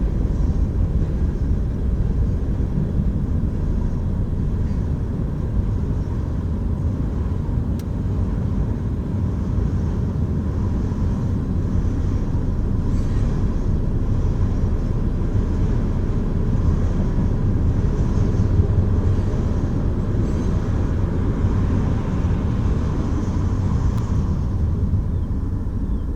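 Florida East Coast Railway freight train rolling past: a steady, loud rumble of wheels on the rails that holds without a break.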